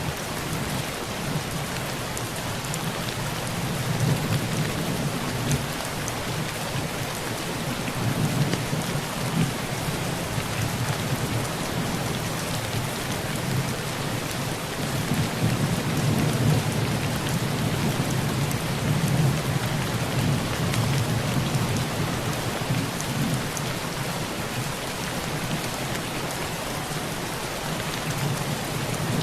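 Heavy rain falling steadily on a tin roof, with thunder rumbling low underneath in two long rolls, one starting about four seconds in and another around the middle.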